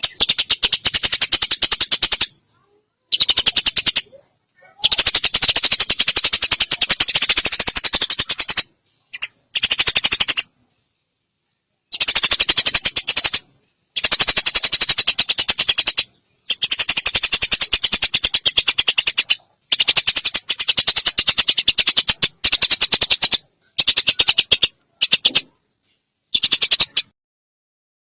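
Sparrows' fighting calls: loud, rapid chattering rattles in bursts of one to four seconds, broken by short pauses.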